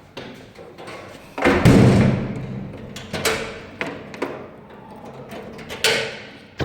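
A loud thud about a second and a half in, then several shorter, sharper knocks and bumps.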